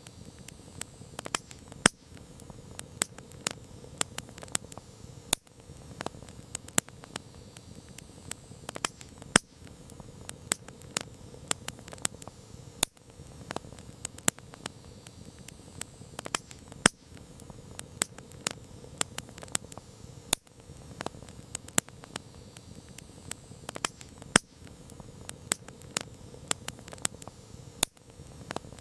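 Campfire crackling: frequent sharp, irregular pops and snaps over a steady low rush of the flames.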